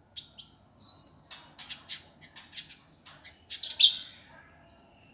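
Indigo bunting singing a fast, harsh, densely packed song. It opens with a few whistled, slurred notes, runs into a quick series of short chirps, and ends in a loud, harsh burst.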